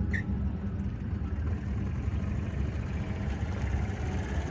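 A car engine idling steadily, a continuous low rumble.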